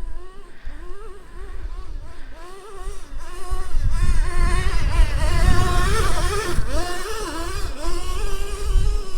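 Traxxas T-Maxx 3.3's two-stroke nitro engine revving up and down as the truck is driven over rough ground. It gets louder about three and a half seconds in, with a low rumble underneath.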